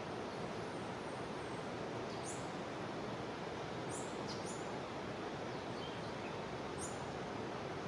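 Steady rushing of a jungle river. A few short, very high chirps fall in pitch over it, about four in all.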